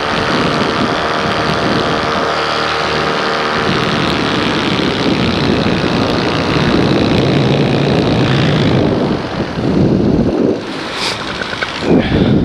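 Paramotor engine and propeller running in flight, throttled back toward idle, with a steady engine tone. After about eight seconds the tone gives way to a rougher rush of noise.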